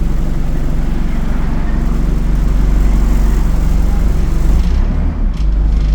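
ADL Enviro 200 bus's Euro 4 diesel engine running with a steady low drone; the higher hiss above it dies away near the end.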